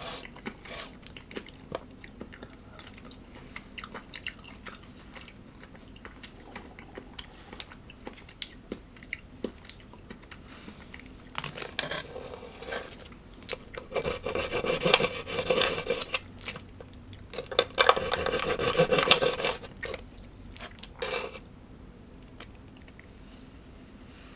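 Close-up eating sounds: chewing and crunching of food with small clicks. Past the middle come three longer, louder stretches of cutlery scraping on a dish.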